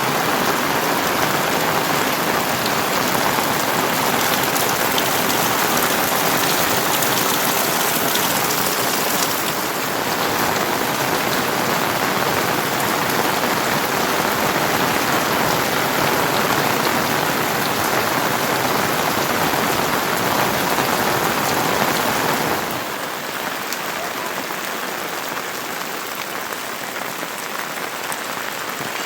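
Heavy monsoon rain pouring steadily, a dense hiss of falling rain; it becomes somewhat softer about three quarters of the way through.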